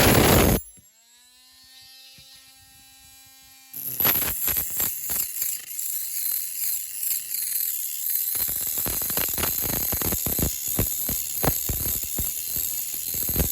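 Hand-tool work on a small diecast metal model: a brief loud rush, then a ringing metallic tone that fades over about three seconds. From about four seconds in comes fast, irregular scraping and clicking.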